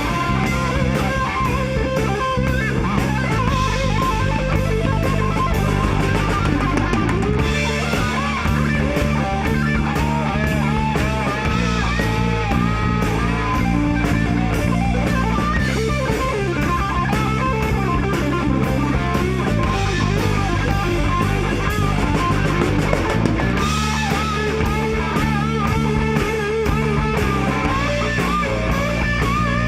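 Live rock band playing an instrumental passage: electric guitar lead with bass and drum kit, the bass changing chord every few seconds.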